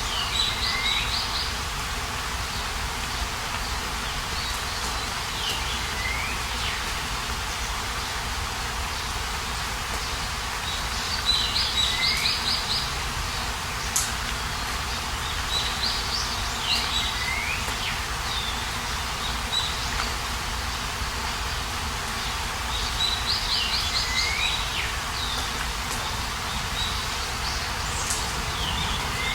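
A songbird singing a short phrase over and over, about every five to six seconds: a quick run of high notes ending in a downward slur, over a steady outdoor hiss.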